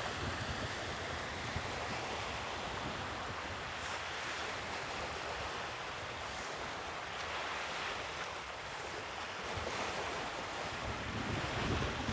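Sea waves washing onto the shore in a steady surf hiss, with wind rumbling on the microphone that picks up near the end.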